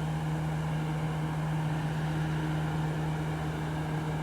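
Steady low engine hum at one unchanging pitch, with no rise or fall.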